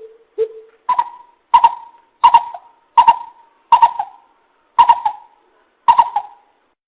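Greater coucal calling: a series of about nine short hollow hoots, the first two lower and the rest a step higher, spaced roughly a second apart or less.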